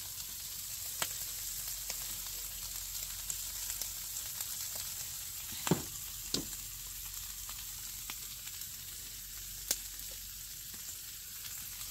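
Food frying on a hot griddle: a steady sizzling hiss, broken by a few sharp taps, the loudest near the middle.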